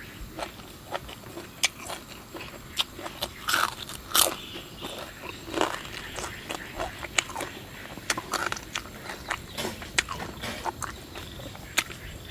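A person chewing and biting crunchy food close to the microphone: irregular sharp crunches and clicks, several a second at times.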